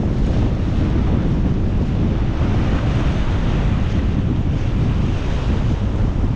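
Strong wind buffeting the microphone in a steady, heavy rumble over the wash of surf on the rocks.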